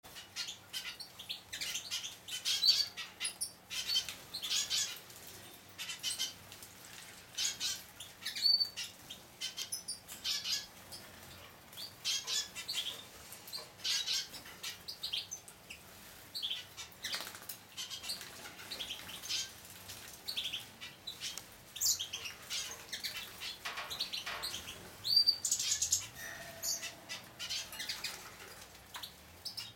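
Juvenile hooded siskin × Raza canary mules bathing: repeated short bursts of wings fluttering and splashing in the water, with a few brief high chirps.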